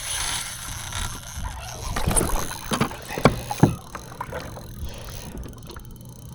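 Handling noise aboard a fishing kayak: rustling and scraping, with a few sharp knocks in the middle, the loudest two close together about three and a half seconds in.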